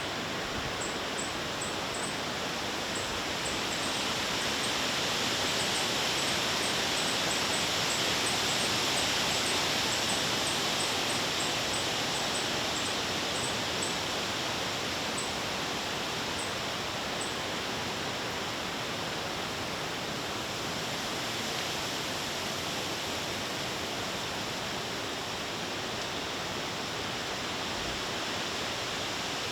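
Breeze over a lake: a steady rushing noise that swells several seconds in and then eases back. A run of faint, very high short chirps sounds through the first half.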